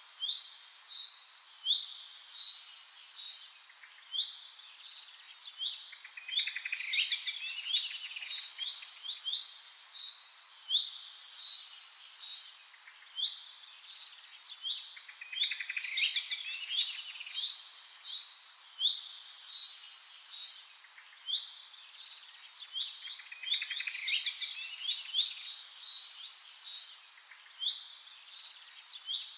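Small birds chirping and singing: quick chirps and fast trills in clustered phrases that come again and again, with no low sound beneath them.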